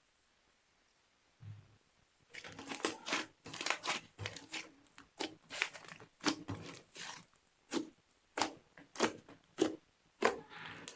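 Slime being squeezed and kneaded by hand, giving an irregular run of sticky clicks, crackles and small pops that starts about two seconds in after a soft thump.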